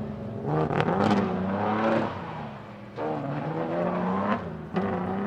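Nissan Skyline GT-R PGC10's S20 twin-cam straight-six revving hard in three bursts of acceleration. Each burst rises in pitch and then drops back as the throttle is lifted.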